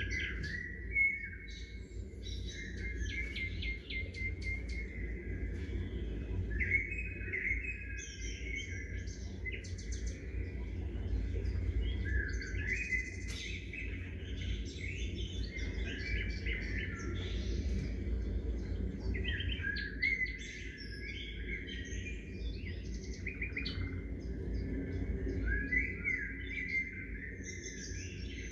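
Songbirds chirping and calling, many short chirps and trills overlapping with hardly a pause, over a steady low background rumble.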